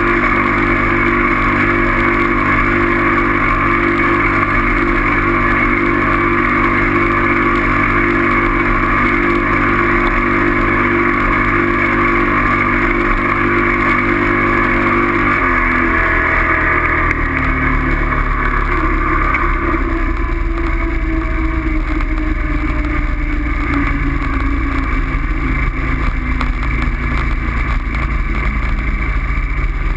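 Motorcycle engine running steadily while riding, its note dropping suddenly about halfway through, then falling slowly for the rest of the time.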